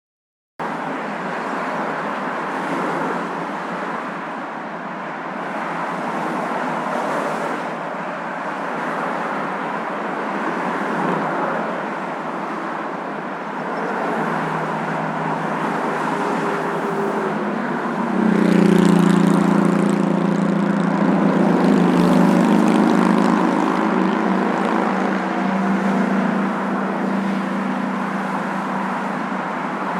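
Steady road and engine noise of a moving car that starts abruptly after a moment of silence. About 18 seconds in, a humming drone with several steady tones joins it and the sound grows a little louder.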